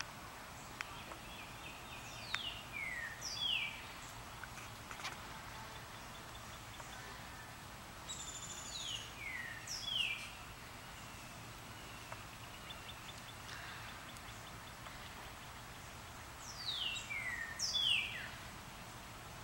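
A songbird singing three phrases, about six to eight seconds apart, each a quick run of high whistled notes that slur downward.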